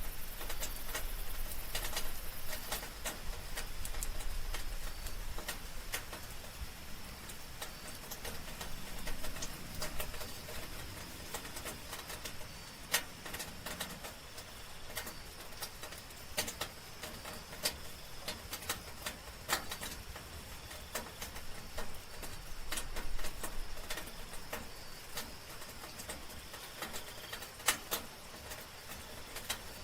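Soft rain falling, with irregular drops ticking and pattering close by, over a steady high chirring of night insects.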